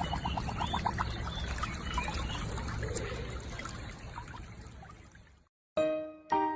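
Water pouring and trickling, with a gargling, bubbling warble at the start. It fades away about five seconds in, and then piano music begins.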